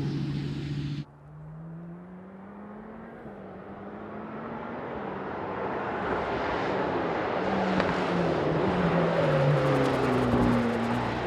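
Mercedes-AMG GT Black Series flat-crank V8 running: a loud steady engine note that cuts off abruptly about a second in, then a quieter engine note rising and falling in pitch as it builds steadily louder, like a car coming on and passing.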